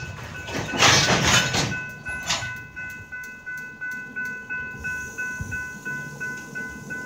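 Long freight train of hopper cars and boxcars rolling past, with a loud rush about a second in that then dies down, while a railroad crossing bell dings steadily about twice a second.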